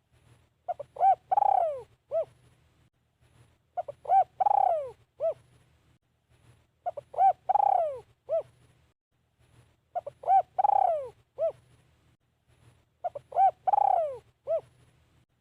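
Spotted dove cooing: five phrases about three seconds apart, each a few short coos, a longer falling coo and a short closing note.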